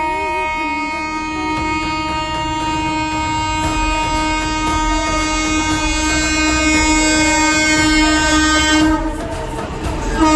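Locomotive horn held in one long steady blast that cuts off about nine seconds in, then sounds again just before the end, over the low rumble of a moving train.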